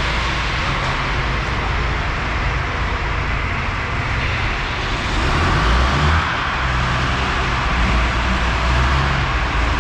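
Perkins 540 V8 diesel engine of a 1958 Fordson Major tractor running steadily, growing louder for a moment about five seconds in and again near the end.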